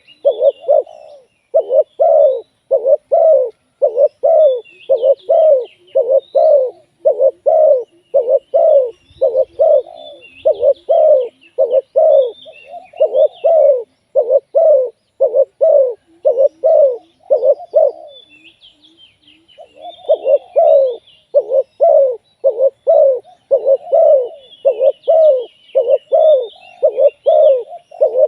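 Spotted dove cooing, short coo notes repeated rapidly, about two to three a second, with one pause of a couple of seconds about two-thirds of the way through. Faint high chirps of small birds sound behind it.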